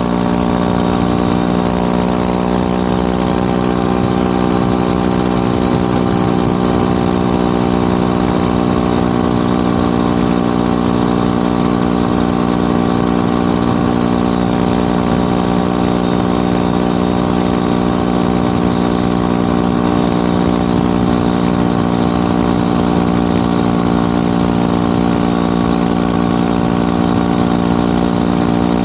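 Motorcycle engine and exhaust running at a steady, unchanging speed, with no rise or fall in pitch.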